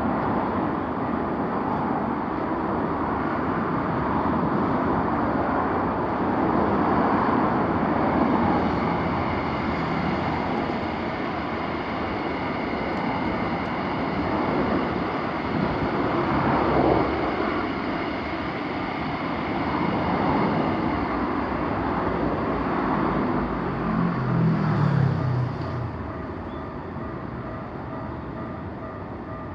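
A train passing over a Japanese railroad crossing: a steady rush of wheel and running noise, with the crossing's electronic warning bells ringing over it. The train noise drops away near the end while the crossing bells keep ringing.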